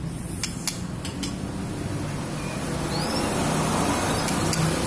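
A steady low motor hum, with three sharp clicks in the first second and a short faint chirp about three seconds in.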